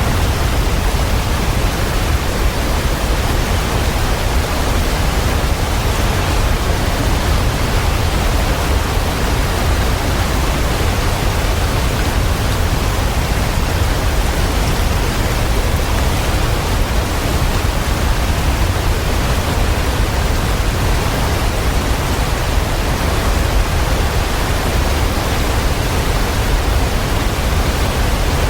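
Waterfall: a steady, unbroken rush of falling water, with a deep low rumble beneath the hiss.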